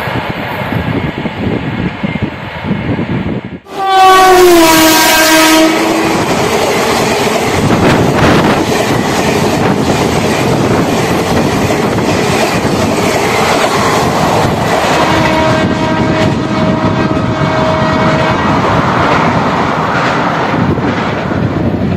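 A WAP-4 electric locomotive's horn sounds as the express speeds past, its pitch dropping as it goes by, followed by the running noise and wheel clatter of the coaches passing close. Later a steady train horn blast sounds for a few seconds.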